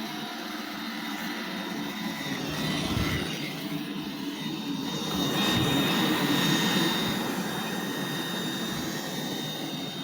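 iRobot Roomba 877 robot vacuum running: a steady whir of its motor and brushes with a thin high whine. It swells louder about three seconds in and again in the middle.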